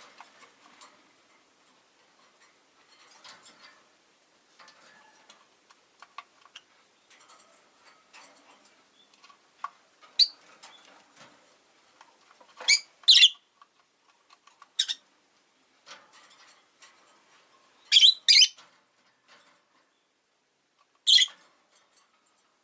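Rosy-faced lovebirds chattering softly, broken by loud, shrill chirps, several coming in quick pairs.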